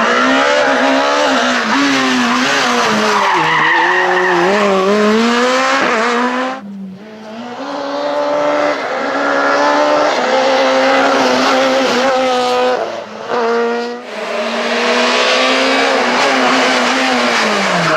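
Super 2000 rally car's naturally aspirated 2.0-litre four-cylinder engine revving hard, its pitch climbing and dropping through gear changes. The level dips briefly twice, about a third of the way in and again about three quarters through.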